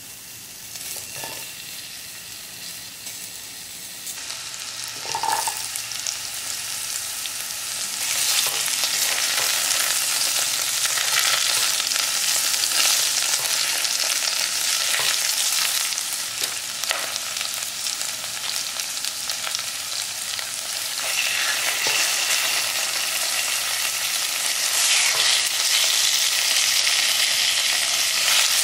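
Onion and ginger sizzling in hot oil in a ceramic-coated pan, stirred with a spatula that taps and scrapes against the pan. The sizzle starts faint, grows much louder about eight seconds in, and swells again in the last several seconds as raw chicken pieces go into the pan.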